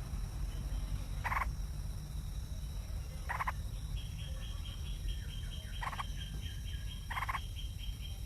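Animal calls: four short, harsh calls a second or two apart, and from about halfway a fast, high pulsing trill, over a low steady rumble.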